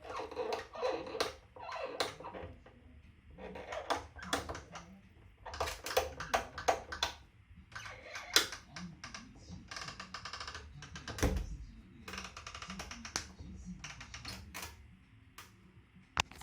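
TOTO thermostatic bath faucet's temperature knob being turned, giving off a run of irregular clicks and clacks and a squeaky creak a little past the middle. The noise is taken for a fault in the faucet: a suspected initial defect, now showing on its replacement as well.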